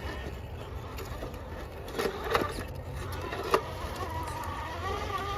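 Electric motor and gear drivetrain of an RC rock crawler whining as the truck works over an obstacle, the whine rising in pitch near the end, with a few sharp knocks of the chassis or tires striking the terrain about two and three and a half seconds in.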